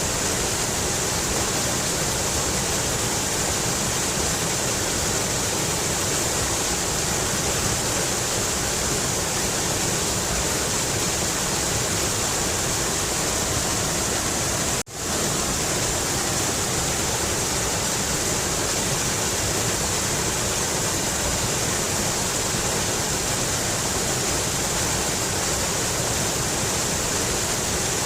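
Mountain river rushing over rocks in a steady, unbroken wash of water noise. About halfway through it cuts out for a split second and comes straight back.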